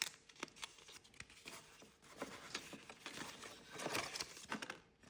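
Packaging crinkling and rustling as it is handled and unwrapped: irregular crackles that come in a couple of denser flurries, about two seconds in and near four seconds.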